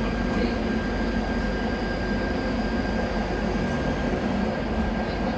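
KVB B80D light-rail car running, heard on board: a steady low rumble overlaid with constant high tones from its newly fitted traction converter driving the original motors.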